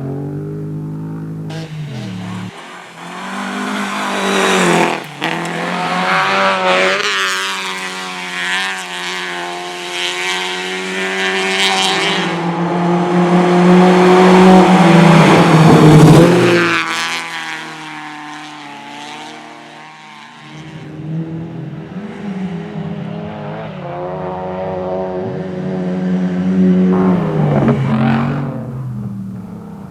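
Rally cars running flat out on a race stage: engines revving hard and changing gear, one car building to a loud pass about halfway through, then another engine note rising and fading near the end.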